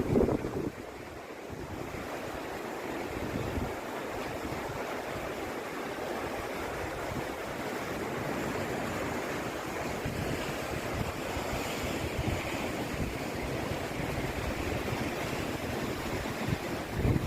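Sea surf washing steadily, with gusting wind rumbling on the microphone.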